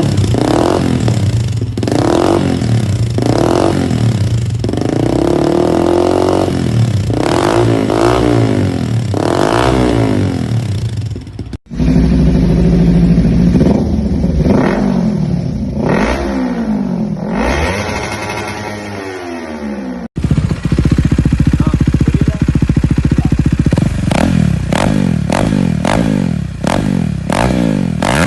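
Motorcycles fitted with aftermarket exhausts being revved in three successive clips. The throttle is blipped again and again, so the exhaust note rises and falls many times. The clips change abruptly about a third and about two thirds of the way through.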